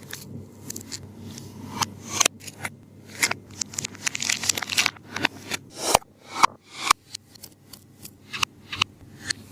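Taba squishy being squeezed and handled, its tape skin crinkling and crackling in short irregular bursts, a few a second.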